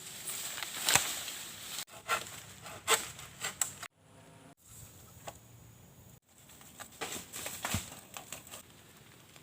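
Irregular rustling, crackling and tapping noises, broken off by several abrupt cuts.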